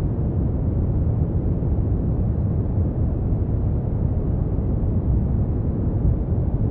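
Steady brown noise: an even, deep rushing hiss, strongest at the low end, with no changes or events.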